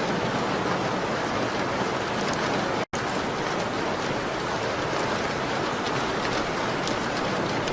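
Steady rain on a window: an even hiss with faint scattered ticks of drops. The sound cuts out completely for an instant about three seconds in.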